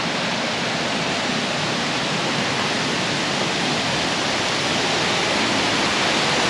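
Waterfall: the steady rush of falling water, growing slightly louder toward the end.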